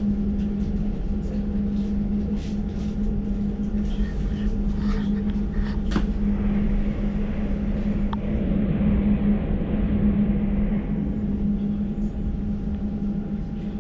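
Class 345 Elizabeth line train heard from inside the carriage while running between stations. A steady low hum and rumble from the wheels and drive sit under a faint steady higher tone, with rushing noise growing louder for a few seconds mid-way and a couple of light clicks.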